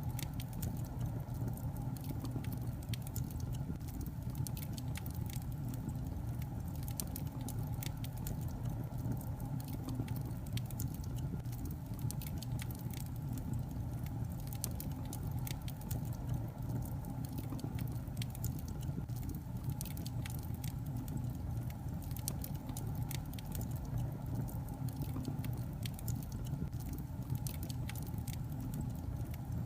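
Wood logs burning in a fireplace: dense, irregular small crackles and pops over a steady low rumble of the fire.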